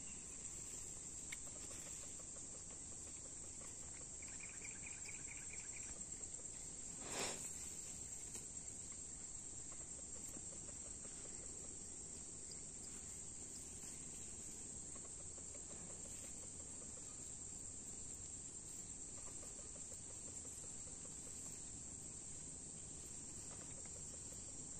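A steady high-pitched drone from a chorus of insects, crickets or the like. A short pulsed call comes about four seconds in, and a brief whoosh, the loudest sound, about seven seconds in.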